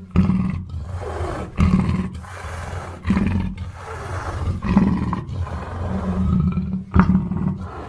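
Black panther giving a series of rough roars, each starting loud and tailing off, about one every second and a half.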